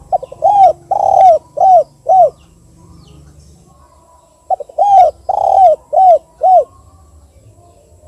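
Spotted dove (tekukur) singing its 'kuk 2' song type twice. Each phrase opens with a quick stutter of short notes and then runs into four rounded coos, the second drawn out longest.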